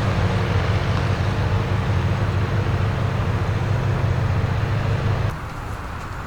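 BMW M5 F90's twin-turbo V8 running at a steady idle through its SuperSprint exhaust, a constant low drone that cuts off abruptly about five seconds in.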